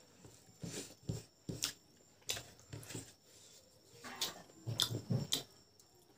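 A person eating boiled pork and rice, with wet chewing and lip smacking: irregular sharp mouth smacks, several in quick succession about four to five seconds in.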